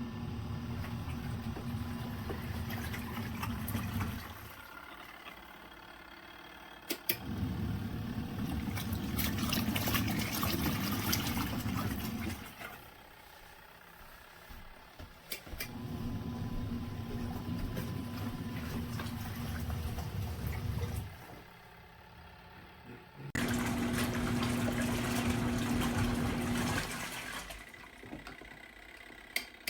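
Twin-tub portable washing machine's wash motor agitating a load of laundry in water, with a low steady hum. It runs for about four to five seconds, stops for about three, then starts again, repeating several times in the stop-start rhythm of the wash cycle.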